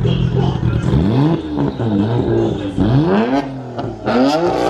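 A car engine being revved in three quick blips, each a sharp rise in pitch that drops back: about a second in, just before the middle, and near the end.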